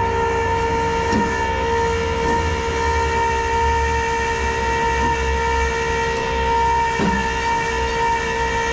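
A train horn sounding one long, steady chord of several tones, over a low rumble.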